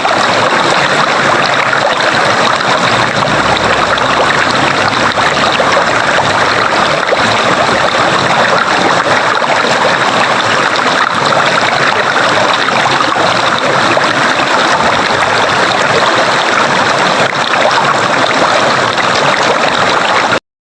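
Running water in a stream, a steady even rush that cuts off abruptly near the end.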